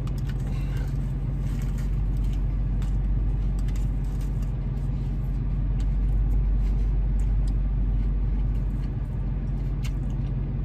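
Steady low hum of a car idling, heard from inside the cabin, with faint clicks of someone chewing a mouthful of burger over it.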